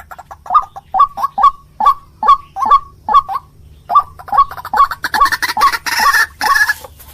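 White-breasted waterhen (ruak-ruak) giving short calls over and over, about two to three a second. There is a brief pause about halfway through, and the calls crowd together and turn harsher near the end.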